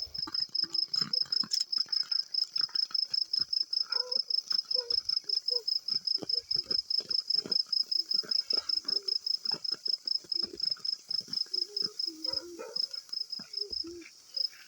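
A cricket chirping steadily in a fast, even rhythm of about seven high chirps a second, pausing briefly a couple of times near the end. Faint background sounds lie underneath.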